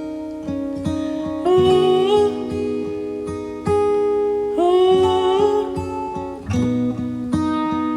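Acoustic guitar strummed and picked in the song's instrumental outro: held chords with regular strokes, and a few notes that slide up into pitch.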